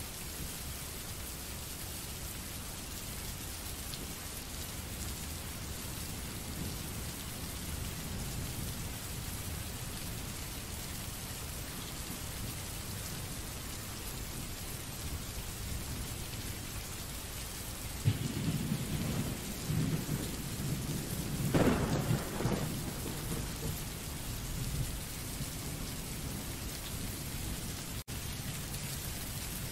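Rain sound-effect track: steady rain, with a roll of thunder that breaks in a little past halfway, swells for a few seconds and fades away.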